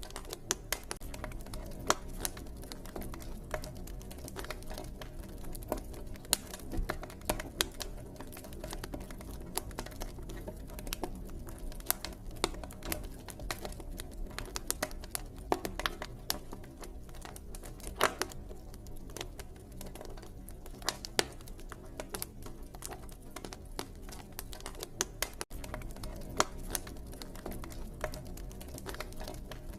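Wood fire crackling: irregular sharp snaps and pops, a few louder than the rest, over a steady low rumble.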